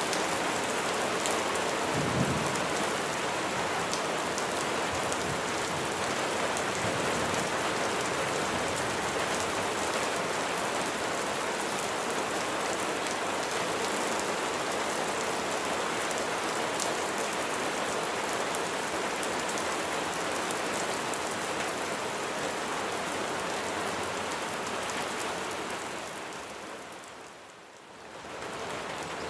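Steady rain falling on a surface, a dense even hiss of drops, with a brief low thump about two seconds in. Near the end the rain fades down briefly and comes back up.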